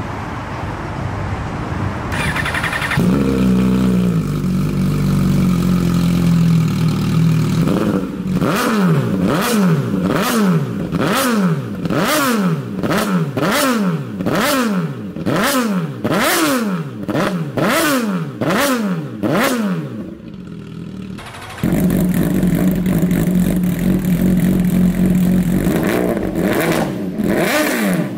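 MV Agusta motorcycle engine starting about three seconds in and settling into an idle, then revved in about a dozen quick blips, roughly one a second, the pitch shooting up and falling back each time. After a brief dip it idles steadily again, with more revs near the end.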